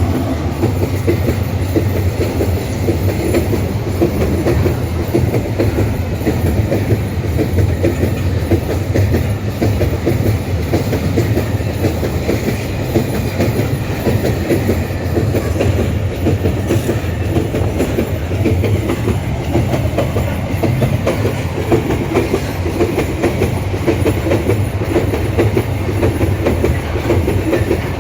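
Empty iron-ore wagons of a freight train rolling past at steady speed, wheels clattering over the rail joints with a continuous rumble.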